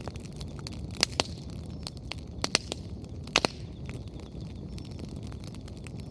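Wood bonfire crackling over a low, steady rush of flame, with several sharp, loud pops from the burning firewood in the first half.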